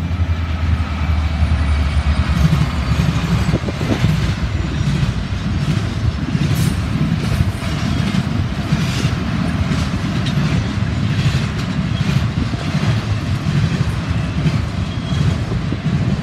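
Norfolk Southern double-stack intermodal freight train rolling past: a steady loud rumble of wheels on rail, with repeated clicks as the wheels cross rail joints and a deeper hum over the first few seconds.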